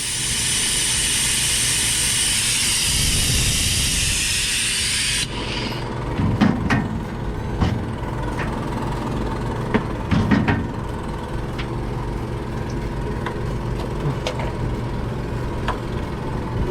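Diesel engine running steadily, with a loud hiss over the first five seconds that cuts off suddenly, then a few sharp knocks.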